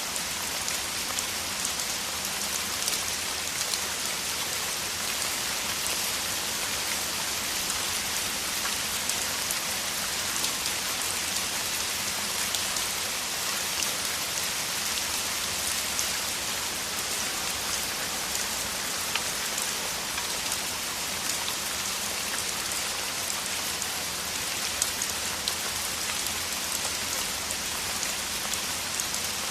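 Steady heavy rain, a dense even hiss with countless fine drop impacts.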